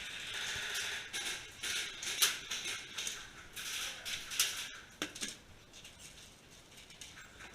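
Irregular footsteps and gear rustling from an airsoft player on the move, with one sharp click about two seconds in.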